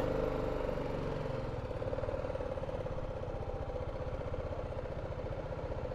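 Single-cylinder engine of a BMW G310GS motorcycle idling steadily.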